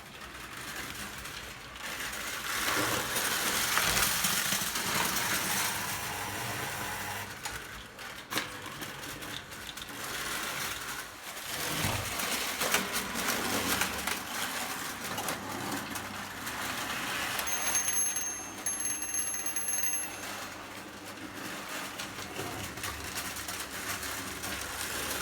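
Prewar Lionel O gauge toy train running on tinplate track: the electric motor whirring and metal wheels clattering with many fine clicks, the loudness rising and falling.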